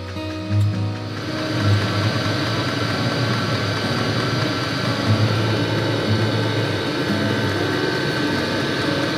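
Hcalory diesel heater running with a steady fan whir that comes in about a second in, under background music with a bass line.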